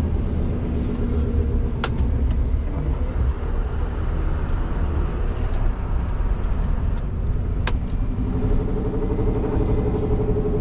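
Scania R620's 16-litre V8 diesel running under way, with steady low engine and road rumble heard from inside the truck cab. A few sharp clicks sound over it, and about eight seconds in a steadier engine note comes up.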